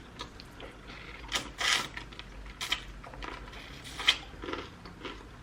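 Close-miked eating of fried chicken wings: irregular crunches and wet mouth clicks while chewing, loudest a little over a second in and again about four seconds in.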